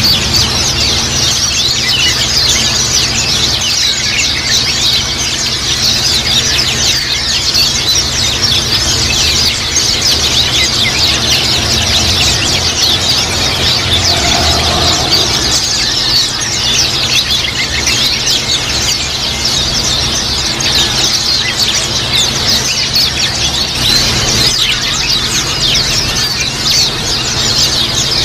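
A flock of white-eyes (pleci) twittering together, with many rapid, high, overlapping chirps running without pause. A steady low hum lies underneath.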